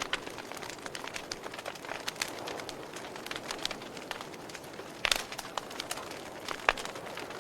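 Campfire crackling: irregular sharp snaps and pops from burning wood over a steady hiss, with a louder burst of pops about five seconds in.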